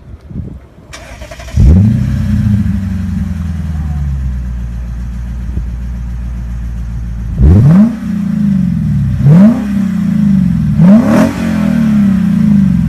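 Lexus IS F's 5.0-litre V8 flares up sharply about a second and a half in, typical of a start-up, and settles to a steady idle. It is then blipped three times in quick succession, each rev rising quickly and falling back to idle.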